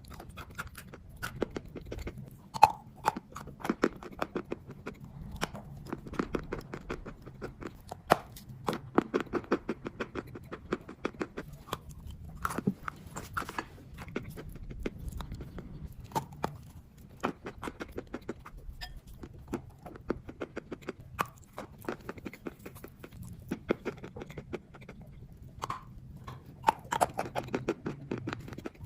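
Chalk being bitten and chewed close to the microphone: a dense run of sharp, irregular crunches and crackles, over a faint steady low hum.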